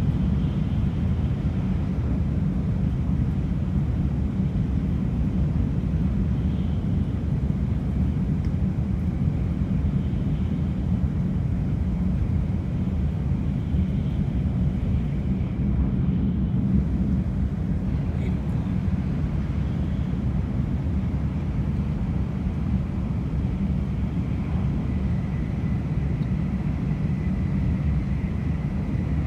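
Shinkansen bullet train running at speed, heard from inside the passenger cabin: a steady low rumble that holds even throughout.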